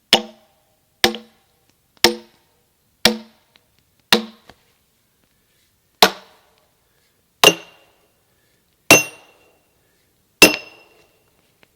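Sledgehammer striking a steel splitting wedge driven into a chestnut log, nine ringing blows. The first five come about a second apart; the last four are further apart and ring at a higher pitch.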